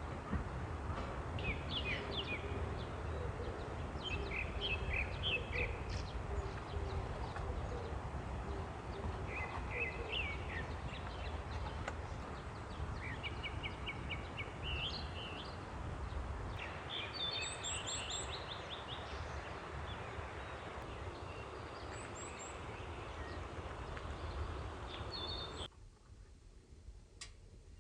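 Wild birds calling and chirping in short repeated phrases over a steady outdoor noise. Near the end the sound cuts off suddenly to quiet room tone.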